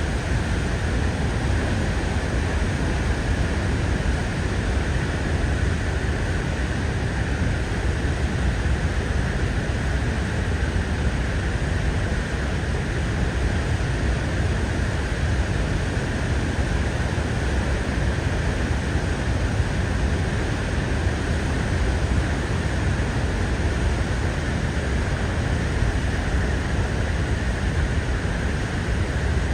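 Steady, unbroken roar of Niagara Falls' water plunging into the gorge.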